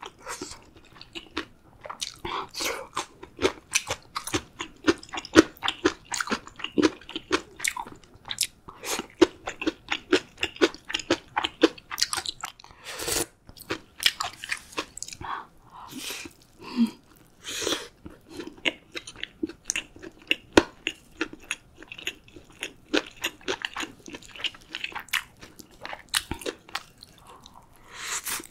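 Close-miked chewing and biting of food: irregular crunches and wet mouth noises, a few a second.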